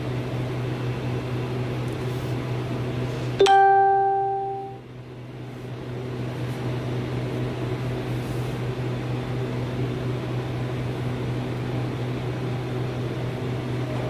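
Steady low hum of running equipment, broken about three and a half seconds in by a single loud chime-like ding that fades out over about a second.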